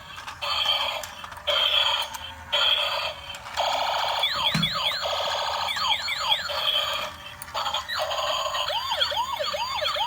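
Transforming police-car robot toy's electronic sound chip playing through its small speaker: bursts of electronic effects, then a wailing police siren about four seconds in and again near the end, with a low thump about halfway through.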